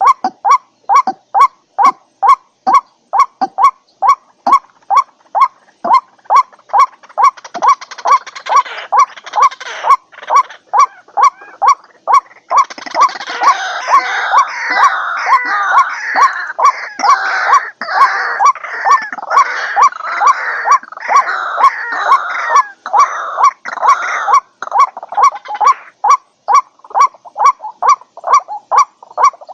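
White-breasted waterhen calling: a steady run of short repeated call notes, about three a second. From about seven seconds in to about twenty-six, this gives way to a dense chorus of overlapping, noisier calls, and then the repeated notes resume.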